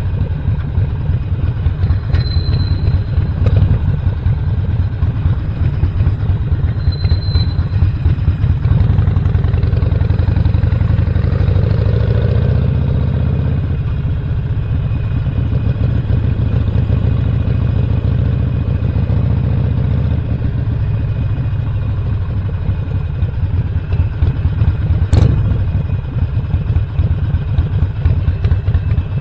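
Stage 1-upgraded 2017 Harley-Davidson Roadster's air-cooled 1200 cc V-twin running steadily while riding. A single sharp click comes near the end.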